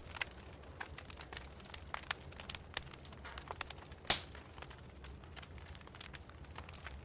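Wood fire in a fireplace crackling, with irregular small snaps and one sharp, loud pop about four seconds in, over a faint low hum.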